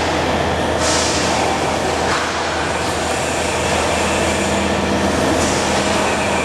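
CO2 laser cutting machine running through a cut: a loud, steady mechanical noise with a low hum, and a second steady tone joins about four seconds in.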